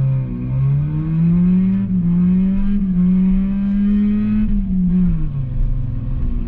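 Yugo's four-cylinder engine revved and held at raised revs. Its pitch rises over the first second or two, holds steady, then drops back toward idle about five seconds in. The engine has a lot of vacuum leaks and only keeps running with the gas pedal pumped.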